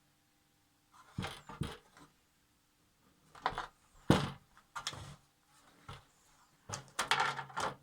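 A piece of heat-shrink tubing being cut off and handled: a run of short sharp clicks and rustles with gaps between them, the sharpest about four seconds in.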